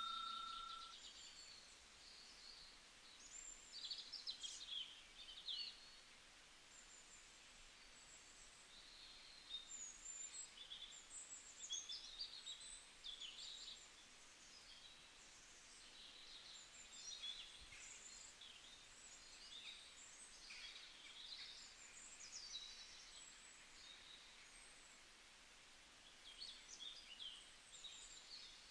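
Faint, scattered bird chirps, short and high-pitched, coming in small clusters every few seconds over near silence.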